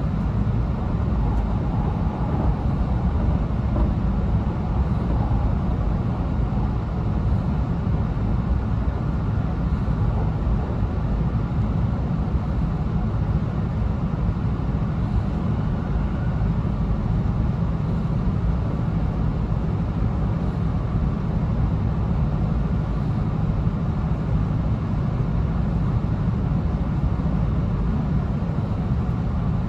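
Steady running noise of an E2 series Shinkansen train, heard inside the passenger car: a low, even rumble of wheels on rail and air rushing past, with no change in level.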